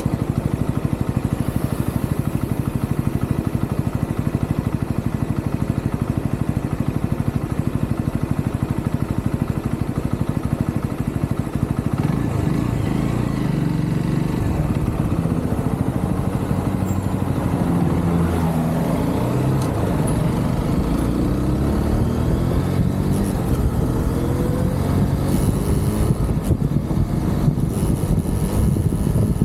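UM Renegade Commando 125 motorcycle's single-cylinder engine running on the road: a steady low thrum for about the first dozen seconds, then its pitch rises several times as the bike accelerates.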